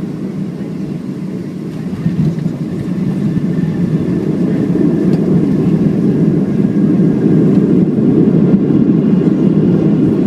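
Cabin noise inside a Boeing 737-700 airliner during landing: a steady low rush of engine and airflow noise that grows louder from about two seconds in.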